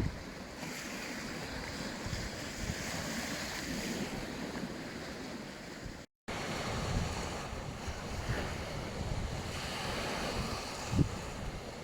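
Sea waves washing onto a beach, a steady surf hiss with wind buffeting the microphone in low thumps near the end. The sound cuts out completely for a moment about six seconds in.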